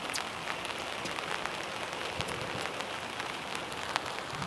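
Steady hiss of rain, with many small scattered drop ticks.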